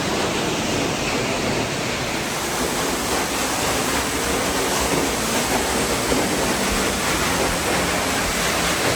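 Large waterfall plunging close by: a loud, steady rush of falling water with no let-up.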